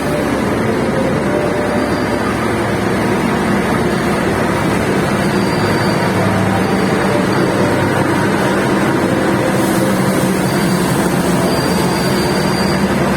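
Steady, continuous rumble and noise of a train.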